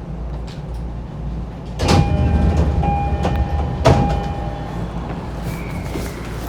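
Running noise inside an E231-1000 series commuter train car: a steady low rumble, broken about two seconds in by a clank and a louder stretch with a high, steady squealing tone lasting about three seconds, with a second clank near the four-second mark.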